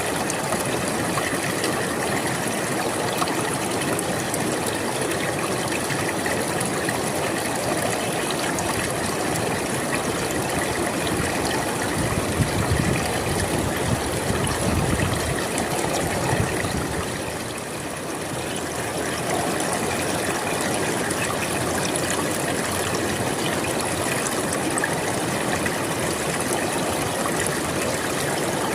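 River water flowing steadily, a continuous rushing. It swells with a deeper surge about halfway through, then eases briefly before settling back.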